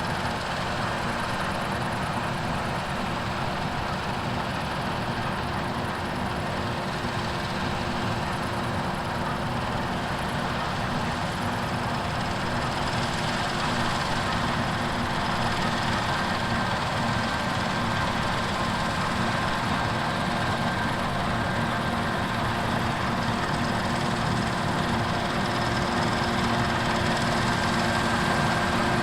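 Heavy diesel harvest machinery running steadily, with a steady whine over the engine; a higher whine joins about halfway through.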